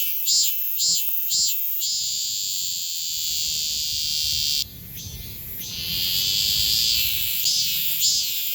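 Cicada singing close by, high-pitched and loud. It starts with repeated pulses about two a second, shifts into a long steady buzz that breaks off briefly near the middle and swells back, then returns to the pulsing phrases near the end.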